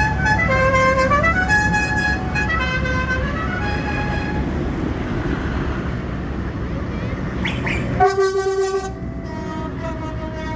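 Tractor engines running with horns tooting: a short tune of quick stepped notes plays over the first four seconds, then one loud horn blast about eight seconds in, lasting about a second.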